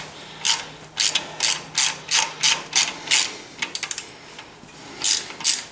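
Hand ratchet wrench clicking in repeated back-and-forth strokes, about two or three a second, with a short pause about four seconds in before the strokes start again: loosening the oil pan bolts on a Ford 800 tractor.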